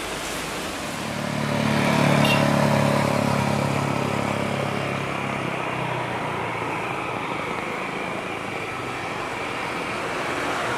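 Jet airliner on landing approach, most likely the Airbus A350-900 with its Rolls-Royce Trent XWB engines. The engine noise swells to its loudest about two seconds in, with a low droning tone, then eases into a steady rumble.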